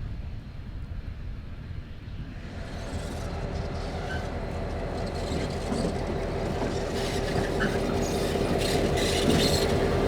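Freight train with diesel locomotives drawing closer and growing steadily louder. A low engine rumble comes with steady tones, and clicks and clanks from wheels and wagons build through the second half.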